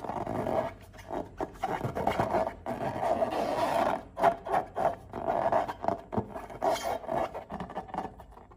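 Close-up handling of slime and balloons: irregular squishing and rubbing with many short sharp clicks, starting suddenly and going on in uneven spurts.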